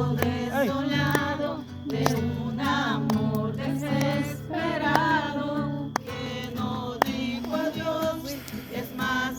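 Music: a song with singing voices gliding over a steady low accompaniment.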